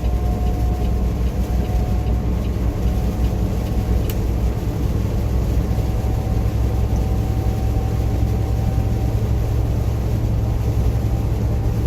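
Semi truck's engine and road noise heard inside the cab while driving at highway speed: a steady, low drone.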